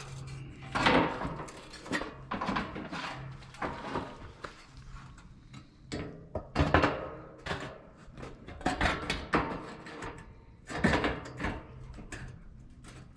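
Irregular knocks, scrapes and clatter of parts being handled and pulled out of an AC unit, over a faint low hum.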